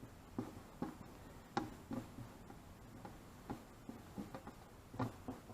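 Scattered light clicks and taps, about half a dozen at irregular intervals, from hands handling small vinyl decals and pressing them onto a motorcycle's plastic side panel.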